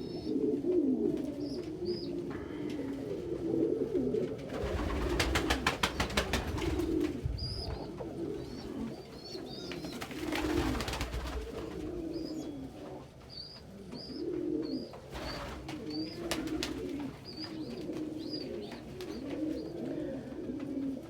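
Several domestic pigeons cooing steadily and overlapping, with scattered high, short chirps. Loud runs of rapid wing flaps come about five seconds in, again around ten seconds in, and briefly near fifteen seconds in.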